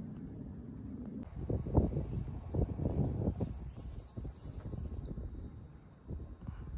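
Small birds chirping over and over in quick, high-pitched calls, from about a second in, with irregular low thuds and rumbles underneath.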